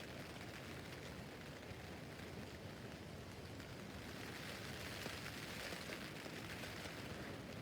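Steady rain falling on a tent's fabric roof, a dense even hiss with faint individual drop ticks, swelling a little in the middle.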